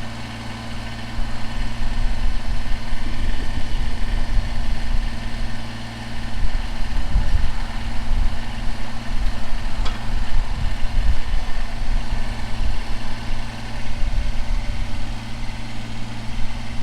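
Kubota BX23S compact tractor's three-cylinder diesel engine running steadily as its backhoe is worked, with low rumble rising and falling under load.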